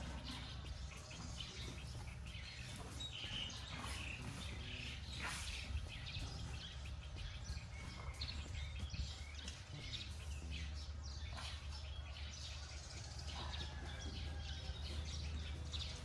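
Small birds chirping and calling on and off, over a steady low rumble.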